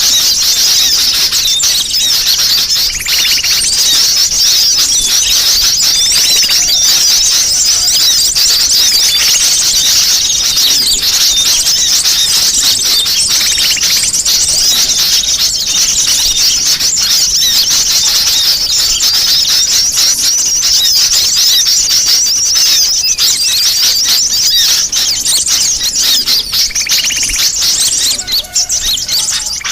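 Dense chorus of high-pitched sunbird calls, rapid chirps and trills, from a bird-lure recording built to sound like a noisy flock. It is loud and unbroken, with a brief dip near the end.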